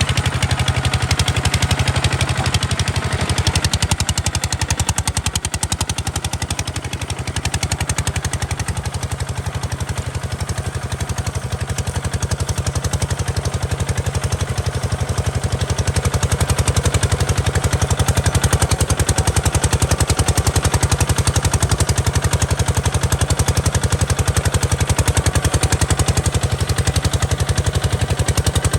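Kubota RT140 DI single-cylinder diesel engine of a walk-behind tractor running with a rapid, even chugging beat, getting a little louder about halfway through.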